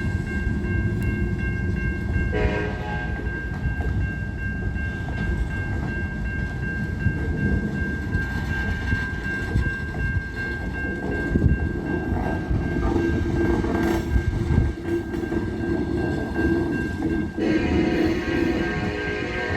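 Freight train running by with a heavy low rumble. The locomotive horn sounds briefly about two seconds in and again near the end, over a steady high tone.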